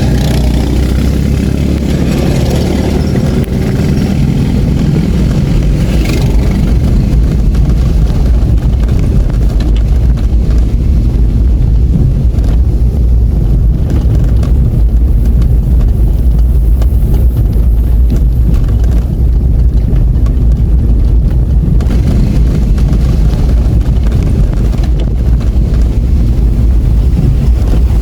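Vehicle running with a loud, steady low rumble.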